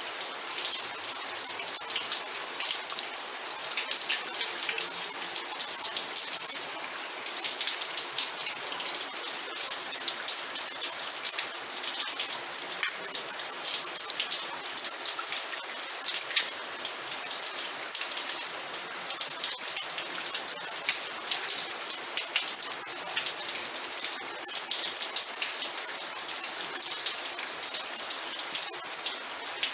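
Steady rain, with dense fine raindrop ticks over a continuous hiss.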